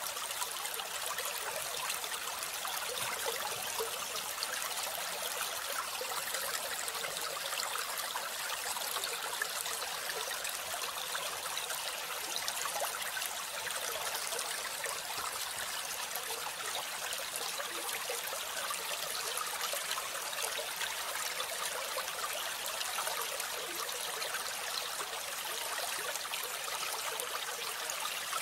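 Steady trickling, rushing water, like a small stream, with no change throughout.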